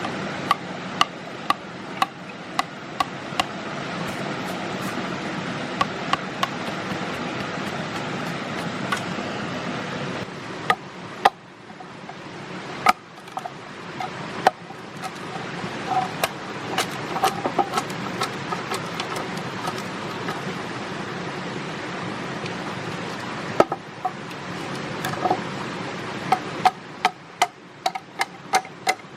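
Sharp knocks of a tool striking wood, over a steady hiss. The knocks come in quick runs of about two a second at the start and again near the end, and are scattered and irregular in between.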